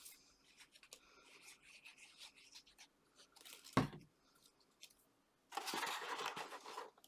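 Card and paper being handled on a craft table: small rustles and ticks, a sharp knock a little before four seconds in, then about a second and a half of paper rubbing and tearing noise near the end.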